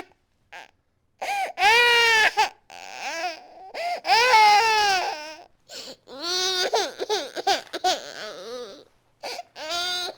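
A baby crying hard: two long, high wails rising and falling in pitch, then a string of shorter broken cries with gasps for breath between them.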